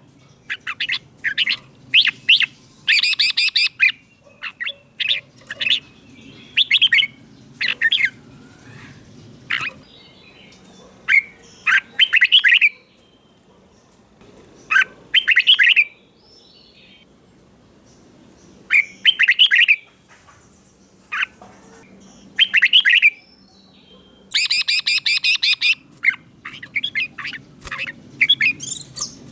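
Red-whiskered bulbul singing: short, loud, warbling phrases repeated in clusters, with pauses of one to a few seconds between them.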